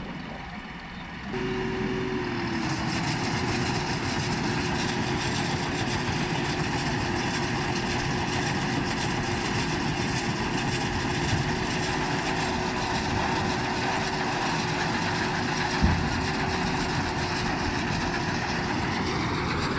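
Tractor engine running steadily under a constant high hum. It grows louder about a second and a half in, and there is a single sharp knock late on.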